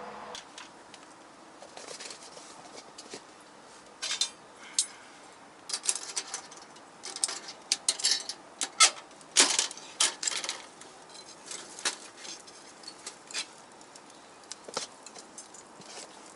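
Firewood crackling and snapping as it burns in a small folding wood stove: irregular sharp pops, thickest in the middle stretch and thinning out toward the end.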